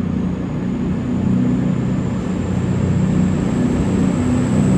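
CrossCountry Class 220 Voyager diesel-electric units pulling out, their underfloor diesel engines running with a steady low drone and a thin high whine slowly rising in pitch, growing a little louder.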